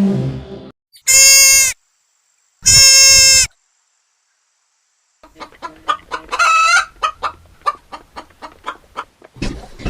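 Chicken sounds: two short, loud, high calls about two seconds apart, then after a pause a hen clucking in a quick run of short clucks with a brief squawk partway through.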